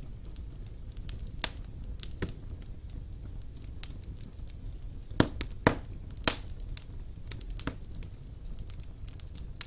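Wood fire burning in a fireplace: a low steady rumble of flames with scattered sharp crackles and pops from the logs, three louder pops a little past the middle.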